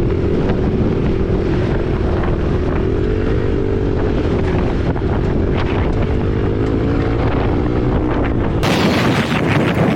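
Dirt bike engine, a Husqvarna 501 single-cylinder four-stroke, running at riding speed with its pitch rising and falling a little, under heavy wind buffeting on the microphone. Near the end the engine tone drops out and louder wind noise takes over.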